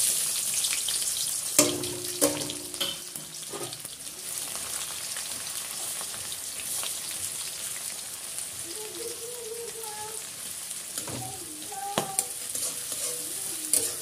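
Sliced onion and crushed garlic sizzling in hot oil in a steel kadai, loudest as they go in and settling to a steady frying hiss. A spatula knocks and scrapes against the pan a few times, twice early on and once near the end.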